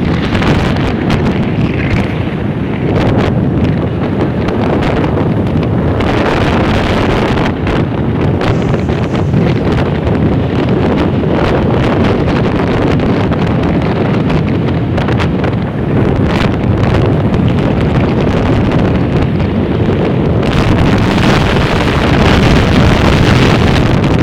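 Wind buffeting the microphone: a loud, steady rumble with frequent crackles.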